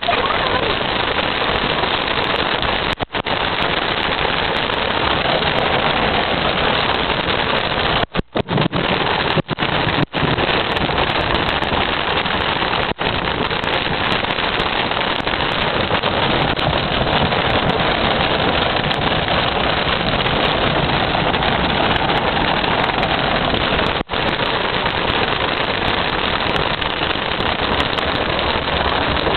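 Heavy rain pouring down as a loud, steady hiss, with a few momentary dropouts in the recording.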